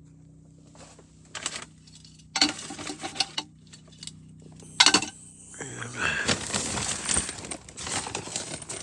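Small hard plumbing parts clinking as they are handled: a few sharp separate clicks, then about three seconds of busy rattling and clatter.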